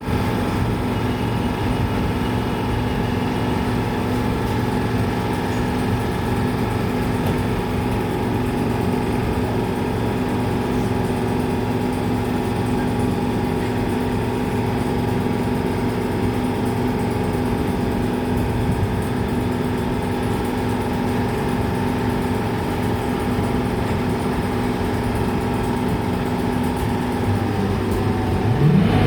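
A train standing at the station with its engine running steadily at idle, a hum made of several fixed tones. About a second and a half before the end, a rising whine starts.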